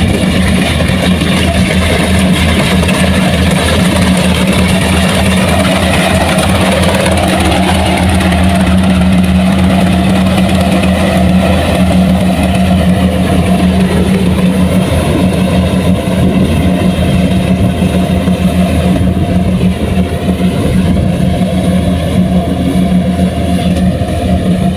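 Engine of heavy farm machinery running steadily at a constant speed. A low, even hum holds throughout with no breaks.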